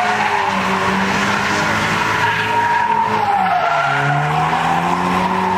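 A car's tyres squealing in one long, wavering screech as it spins, with its engine revving up and down underneath.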